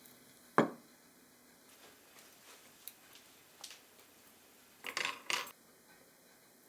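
Kitchen utensils and dishes being handled: one sharp knock about half a second in, a few light ticks, then two short rattling clatters near the end.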